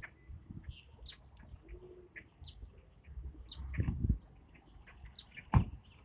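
Birds chirping in many short, high calls while they gather for food, with a few low bumps and one sharp knock a little after five and a half seconds.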